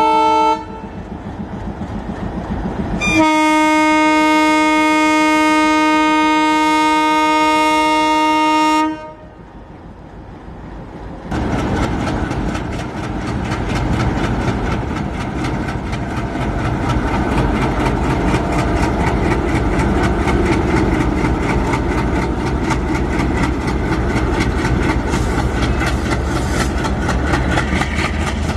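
WDM3A ALCO diesel-electric locomotive sounding its horn: a short note at the start, then one long blast of about six seconds from about three seconds in. From about eleven seconds on, the train runs with steady engine noise and the clatter of wheels on the rails.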